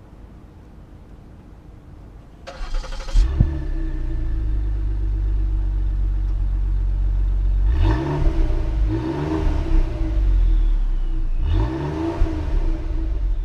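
2016 Ford Taurus SHO's 3.5-litre twin-turbo EcoBoost V6 cranking and starting about three seconds in, then settling to idle. It is blipped three times, each rev rising and falling back quickly.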